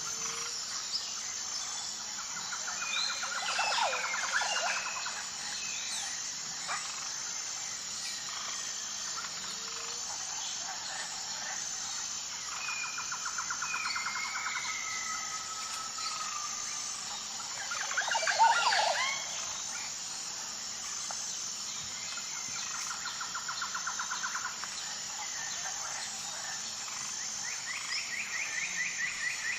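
Wild birds calling over a steady high insect chorus: a rapid trill recurs three times, roughly ten seconds apart, among short whistled downslurs, with a louder burst of sweeping notes about midway.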